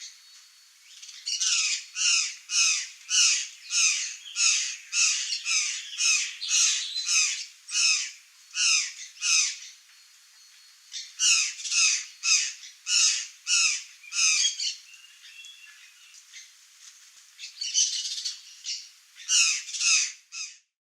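Curl-crested jay calling over and over, about two calls a second, in three bouts with short pauses between.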